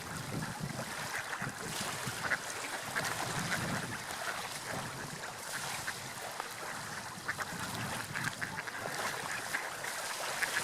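Seagulls calling in short, scattered cries over a steady wash of sea waves and wind.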